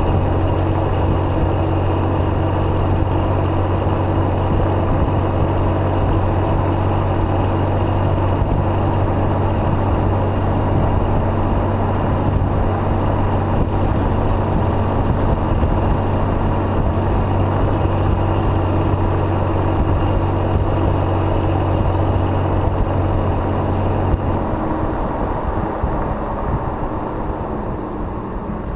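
Exhaust of a Jeep Grand Cherokee through a welded Thrush muffler, running with a steady deep drone. About four-fifths of the way through, the drone drops away and the sound slowly dies down, as when the throttle is let off.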